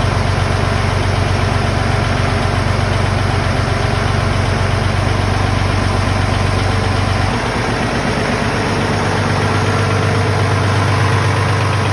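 International 986 tractor's turbocharged six-cylinder diesel idling steadily just after a cold start. About seven seconds in, the low part of the engine note drops away and the sound changes.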